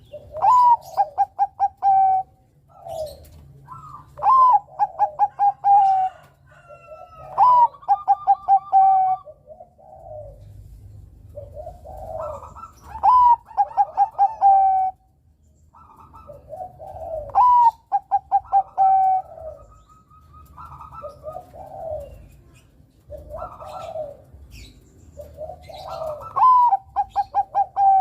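Zebra doves (Bangkok-type perkutut) cooing: repeated phrases of quick, evenly spaced staccato notes, each phrase opening with a short rising note, coming every few seconds with lower overlapping coos between them.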